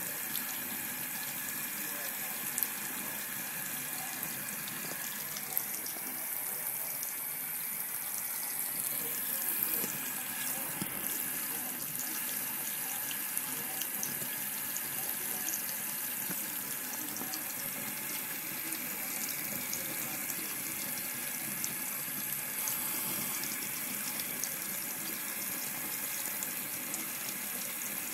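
Water running steadily from a tap into a sink, with a few brief ticks or splashes.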